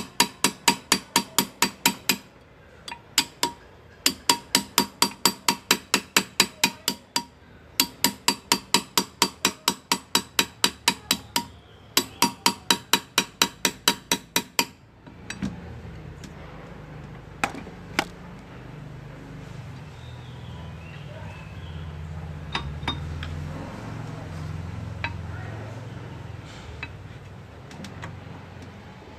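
Hand engraving: a small hammer tapping a steel graver into metal, quick even ringing taps about four or five a second in runs with short pauses between. The tapping stops about halfway through, leaving a low hum with a few scattered clicks.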